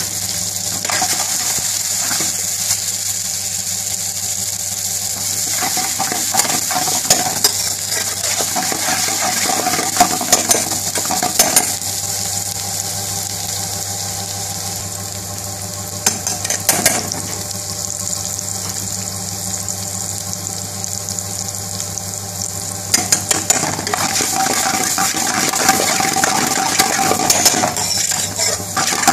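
Sliced onion, green chillies and red pepper sizzling steadily in hot oil in a black wok, with a metal spoon scraping and clinking against the pan in spells of stirring, busiest near the end.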